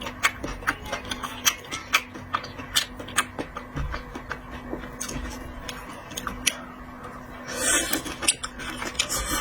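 Seafood shells being handled and cracked while eating: irregular sharp clicks and cracks, a few a second, over a faint steady hum, with a short rustle near the end.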